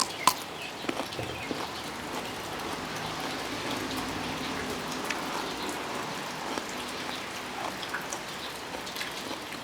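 Steady heavy rain falling and pattering on surfaces, with scattered drop ticks and one sharper click just after the start.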